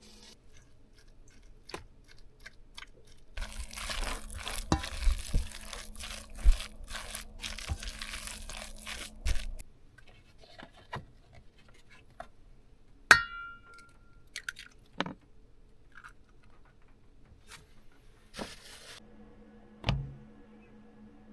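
Food-preparation handling noises: dense crinkling and crunching for about six seconds, then a single ringing clink and a few soft knocks, over a faint steady hum.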